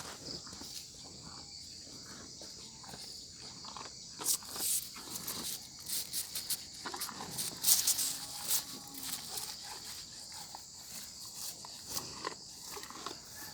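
A steady high-pitched insect chirring, like crickets, with scattered clicks and rustles over it like footsteps on the ground. The loudest clicks come about four and about eight seconds in.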